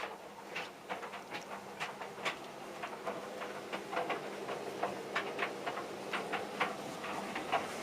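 Tumble dryer running with a steady motor hum while its drum turns a load of jeans, with irregular clicks and knocks several times a second from the buttons and zips striking the drum.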